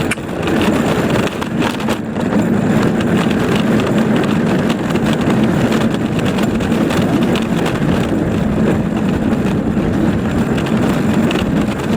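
Ride-on toy car rolling over the ground: a steady rumble with a dense rattle from its wheels.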